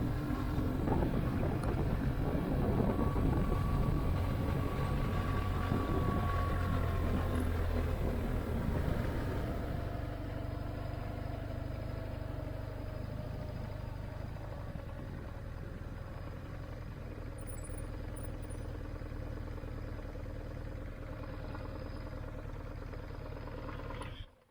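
BMW R1150GS motorcycle's boxer-twin engine running steadily while riding, under a haze of wind and road noise; the sound eases a little about ten seconds in and cuts off abruptly just before the end.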